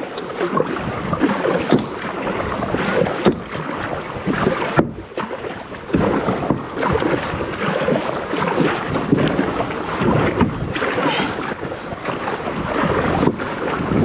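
Kayak paddling: paddles dipping and splashing in the water, with wind buffeting the microphone.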